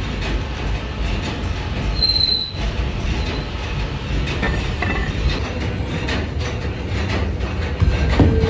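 Heavy metalworking machinery running in a truck-axle factory: a steady rumble with scattered metallic clanks and one brief high squeal of metal about two seconds in.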